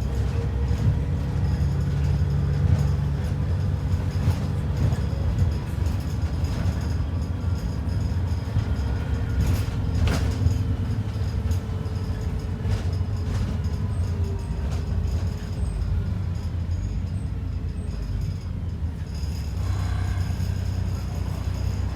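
ADL Enviro 400 double-decker bus heard from inside the passenger saloon: a steady low engine and road rumble, with a faint whine slowly falling in pitch and a single sharp rattle or click about halfway through.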